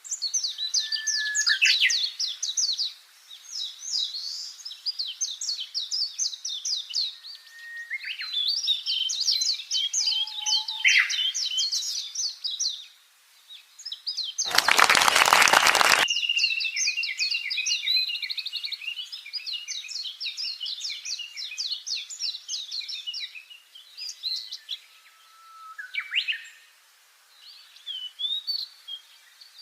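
Budgerigars chattering and warbling in quick, busy runs of chirps. About halfway through, a loud harsh noise lasting about a second and a half cuts across the chatter.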